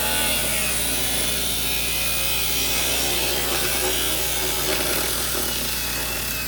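A power tool cutting, a steady rasping noise with an even low hum beneath it.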